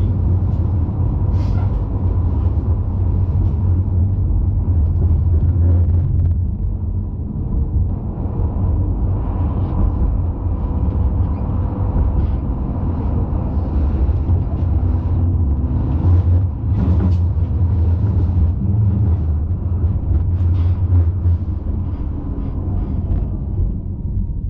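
Electric tram running on its rails, heard from inside: a steady low rumble with a faint steady whine, and occasional short knocks.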